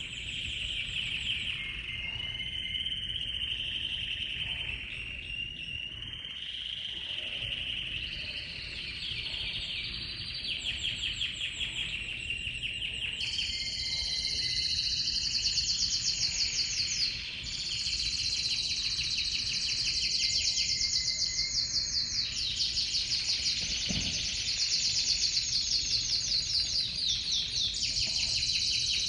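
Timbrado Español canary song: a continuous run of fast trills and rolled notes that shift between phrases, moving to higher, louder rolls about halfway through.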